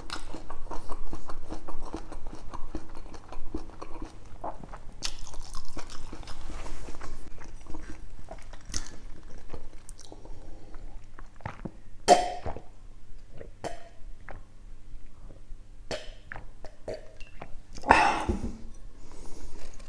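Close-miked chewing and wet mouth sounds of a person eating spicy pork adobo in coconut milk, with a steady run of small clicks and smacks. Two louder sudden sounds from the eater come about twelve and eighteen seconds in.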